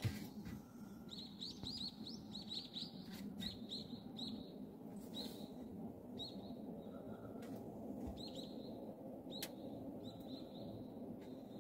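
Small birds chirping, short high chirps in quick runs that come and go, over a steady low background rumble.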